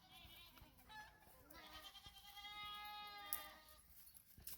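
Goats bleating: a brief call at the start, then one long, steady bleat of about two seconds in the middle.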